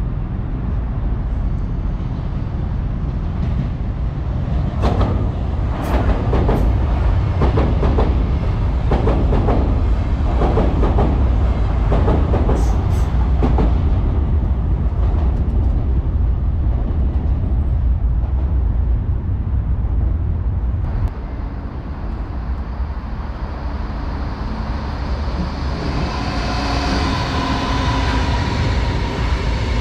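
Lastochka electric multiple-unit train running on the line: a steady low rumble with a run of wheel clicks over rail joints in the first half. Near the end a steady electric whine joins in.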